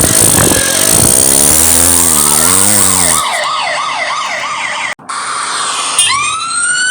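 Police siren sound effect: a noisy rush with a low warbling tone gives way to a fast yelping siren that swoops up and down about three times a second. It breaks off sharply near five seconds, and a slower siren wail begins rising near the end.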